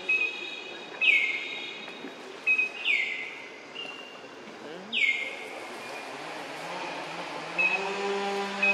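A forest bird repeating a sharp call that drops quickly in pitch, about every two seconds, with short level whistles between the calls. From about seven seconds in, a steady low hum rises and holds under it.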